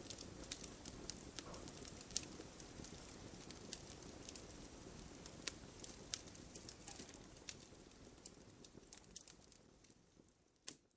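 Wood fire crackling: a low steady rush of flames under sharp, irregular pops and snaps, the whole sound fading out over the last few seconds.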